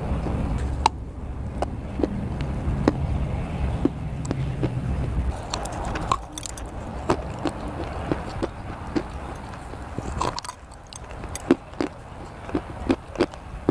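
Close-miked biting and chewing of dry, chalky edible clay: a run of irregular sharp crunches. A low rumble sits under the chewing for the first five seconds or so, and the crunches become sparser and crisper after that.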